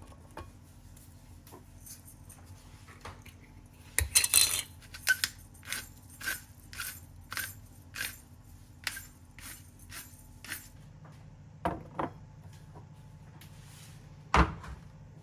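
A metal utensil clinking against cookware: a clatter about four seconds in, then a run of regular clinks, roughly two a second, for about six seconds, followed by a few heavier knocks near the end.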